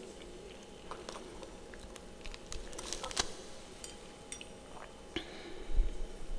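Scattered crisp clicks and small crunches of freezer frost, bunched about two to three seconds in, with a low thump near the end.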